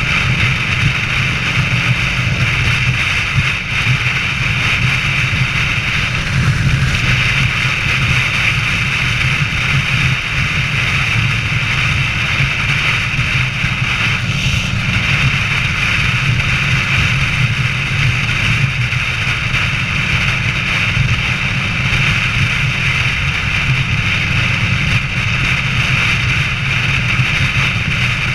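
Harley-Davidson Sportster air-cooled V-twin, bored out to 1250 cc, running steadily at highway cruising speed, its low engine drone mixed with wind noise on the microphone.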